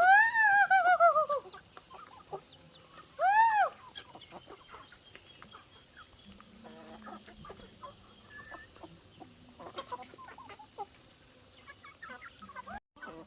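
Chickens calling: a long, wavering call that falls in pitch at the start, a shorter rise-and-fall call about three and a half seconds in, then quieter clucks and soft ticks.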